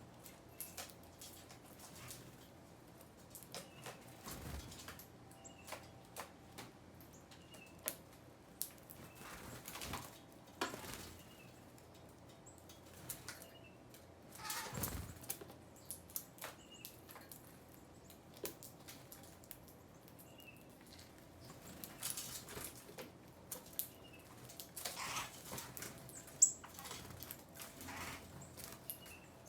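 Small birds feeding and moving about: scattered pecks and taps, a few wing flutters, and a faint short chirp repeated every second or two.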